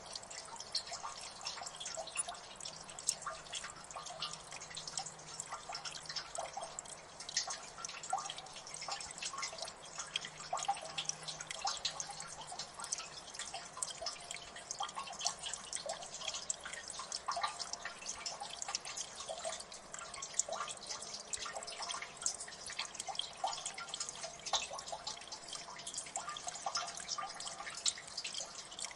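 Water dripping in a gully: many irregular drops landing, several a second, over a faint wash of running water.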